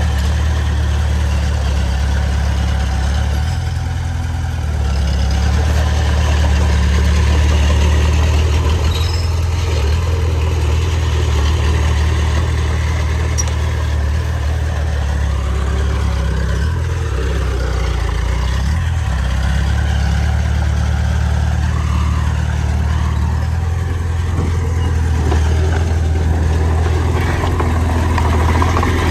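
Heavy diesel engine of earthmoving machinery running with a steady deep drone, swelling slightly a few seconds in.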